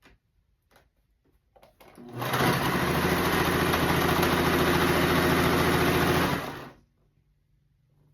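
Electric sewing machine running steadily at speed for about four seconds, starting about two seconds in after a few small clicks, then stopping.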